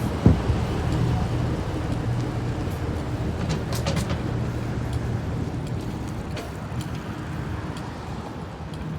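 Low, steady vehicle engine rumble that slowly fades, with a single thump just after the start.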